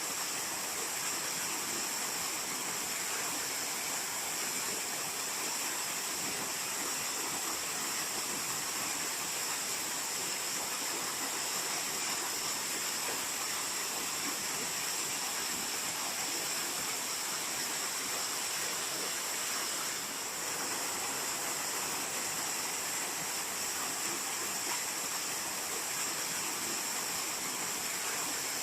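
Waterfall: falling water making a steady, even rush, strongest in its high hiss.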